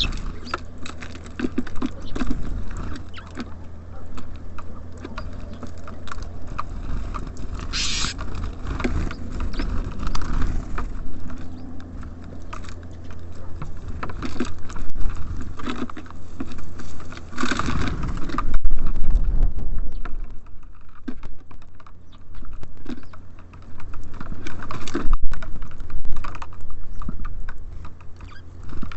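Small birds pecking and scrabbling on a bird feeder close to the microphone: an uneven patter of taps and scrapes, with louder flurries now and then over a steady low rumble.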